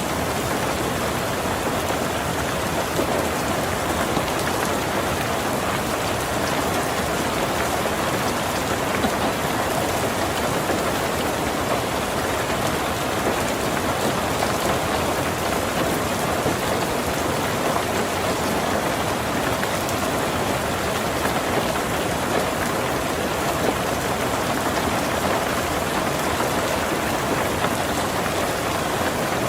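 Heavy rain falling steadily on a tin roof, a dense, even patter of drops with no let-up.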